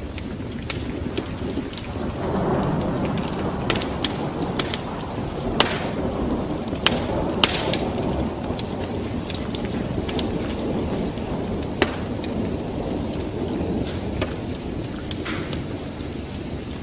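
Wood fire crackling in a fireplace: irregular sharp pops and snaps over a low rumble that swells about two seconds in.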